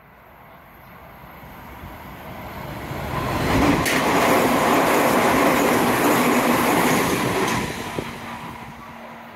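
Hanshin Railway electric train running through the station without stopping. The rush of wheels on rail grows, is loudest from about three and a half seconds in, with a sharp clack near four seconds, then fades as the train pulls away.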